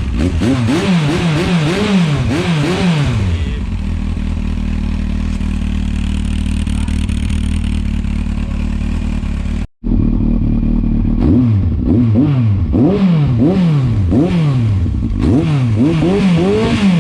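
1998 Yamaha R1's inline-four engine through a GPR Furore Nero slip-on exhaust, blipped repeatedly in quick revs, settling to a steady idle, then, after a brief cut near the middle, revved in quick blips again.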